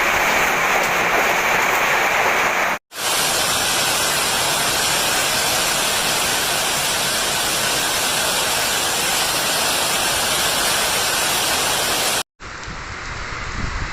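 Heavy rain with hail pelting down, a steady dense hiss in a severe storm. It breaks off abruptly twice as the recording jumps between clips, the last part quieter.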